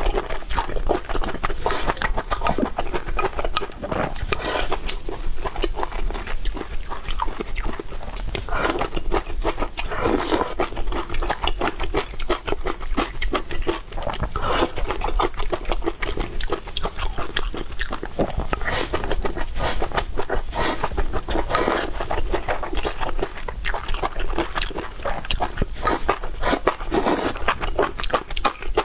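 Close-miked eating: wet chewing and lip smacking, a dense irregular run of small clicks and squelches.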